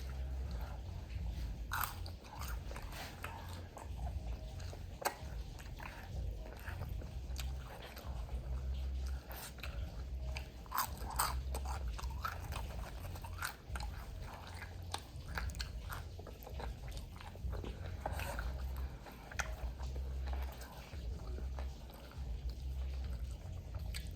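A person chewing and biting into crispy fried food close to the microphone, with irregular crunches and crackles. The crunching comes from lumpia-wrapped fried chicken wingettes and seasoned fries.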